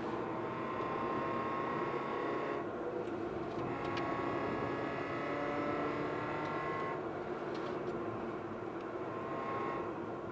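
Mazda MX-5 NC's four-cylinder engine under way, heard from inside the cabin together with road noise. The engine note eases off about two and a half seconds in and again about seven seconds in, and picks up again in between.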